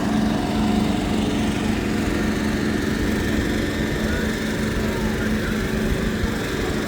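A steady engine drone: an idling motor running with a constant hum and low rumble.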